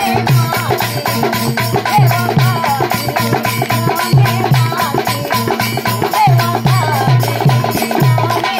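Instrumental passage of Marathi devotional folk music with no singing: a steady repeating drum beat, a rattle like a shaker, and a wavering melodic line over it.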